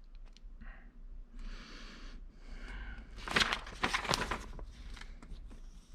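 Paper rustling as an instruction sheet is handled, with a short rustle a little over a second in and a cluster of crisp crackles and light taps around the middle.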